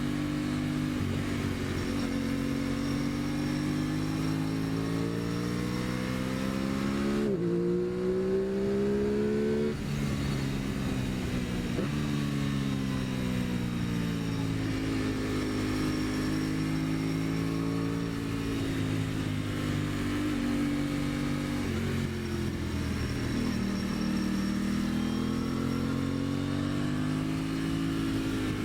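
2023 Aprilia Tuono 660's parallel-twin engine, heard from the rider's seat as it climbs hairpins. It revs up and eases off several times, its pitch climbing and falling, with one sudden drop in pitch about seven seconds in.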